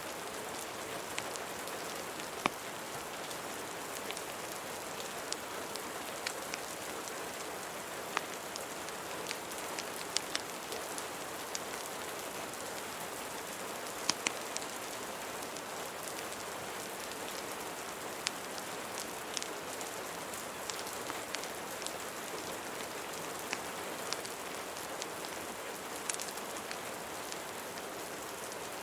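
Steady rain hissing, mixed with a few dozen sparse, sharp crackles and pops of a wood fire.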